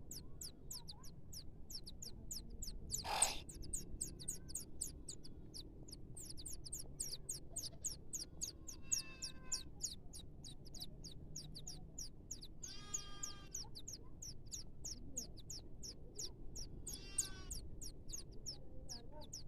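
Small birds calling: a steady, rapid series of thin, high chirps, about five a second, with three longer, harsher calls later on. A single sharp click comes about three seconds in.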